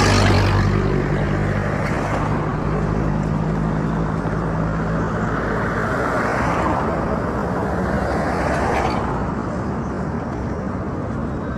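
Road traffic: passing vehicles swell and fade over a steady hiss of traffic, with a low engine hum through the first half.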